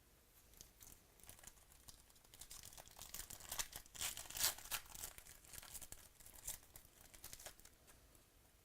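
Trading card pack wrapper being torn open and crinkled: a run of sharp, high crackles that grows busiest in the middle and trails off near the end.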